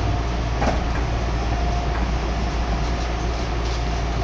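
Meitetsu Tokoname Line electric commuter train running, heard from inside the passenger car: a steady rumble of wheels on rail with a faint steady tone. One sharp clack comes about 0.7 seconds in.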